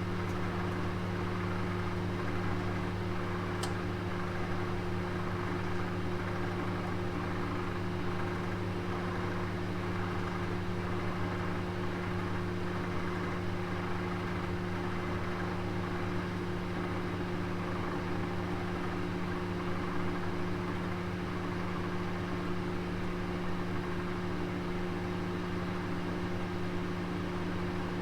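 Oven running: a steady motor hum with even fan noise, unchanging throughout, and one faint click about three and a half seconds in.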